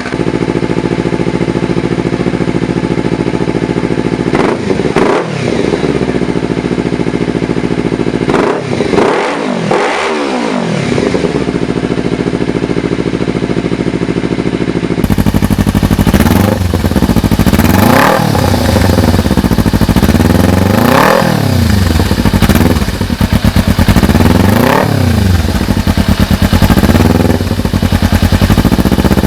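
Kawasaki Ninja 300 parallel-twin engine idling through an aftermarket exhaust and being revved in short throttle blips, the pitch climbing and falling back each time. About halfway through the sound cuts to a second Ninja 300 with a different aftermarket exhaust, idling and revved three times.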